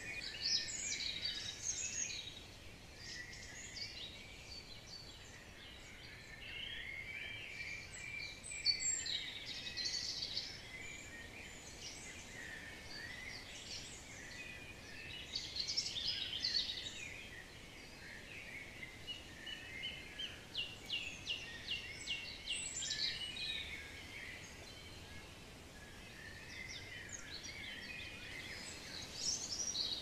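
Songbirds singing and calling on and off throughout, with a run of quick repeated notes about two-thirds of the way through.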